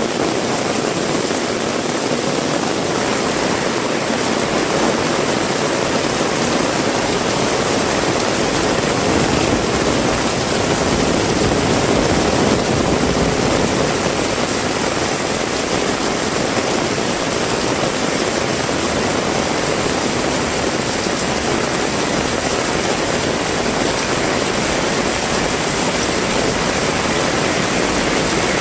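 Heavy rain pouring down steadily as a dense, even hiss, swelling slightly about a third of the way in.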